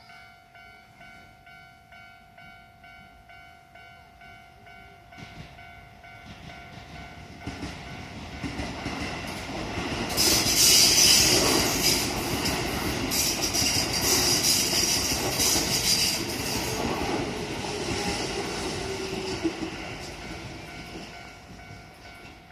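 Japanese level-crossing warning bell ringing about twice a second, then a Keio 9000 series electric train passing through the crossing. The clatter of its wheels over the rails grows, is loudest about halfway through, and fades away, while the bell keeps ringing.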